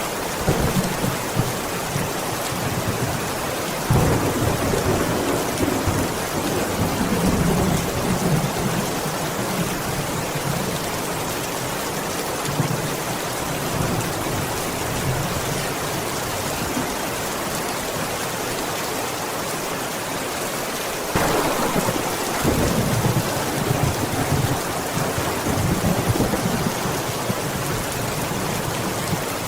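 Steady rainfall, with two rolls of thunder rumbling in: one about four seconds in and another about twenty-one seconds in, each lasting several seconds.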